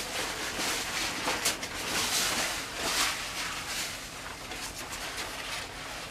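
Rustling of a thin rain suit's fabric as it is moved, in irregular swishes that fade toward the end.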